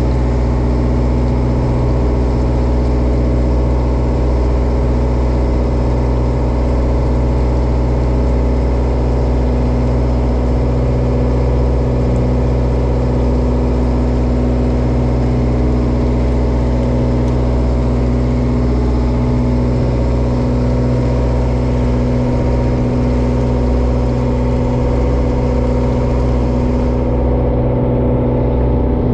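A bottom-trawler fishing boat's engine running at a steady speed, a low, even drone that does not change.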